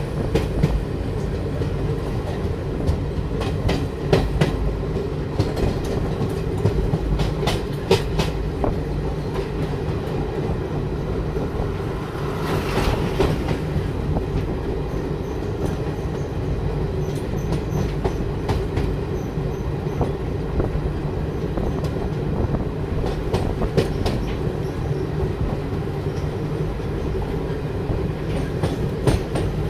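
Railway train running, heard from on board: a steady rumble with irregular sharp clacks of the wheels over rail joints.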